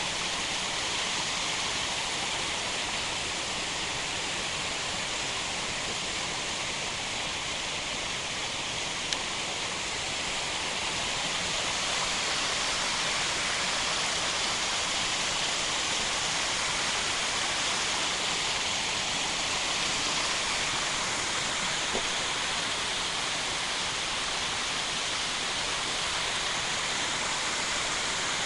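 Steady rush of a mountain waterfall, water pouring onto rocks.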